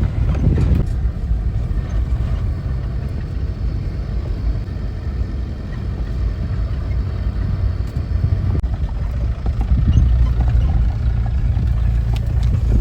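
Safari jeep driving along, a steady low engine and road rumble with wind buffeting the microphone.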